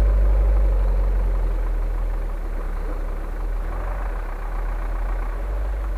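Off-road 4x4 engine running at low revs with a steady low hum. It eases off over the first couple of seconds and then holds steady.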